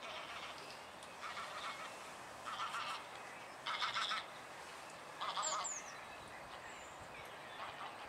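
Large birds giving four harsh calls, each about half a second long and about a second apart. Two quick high chirps from a small bird come about five seconds in.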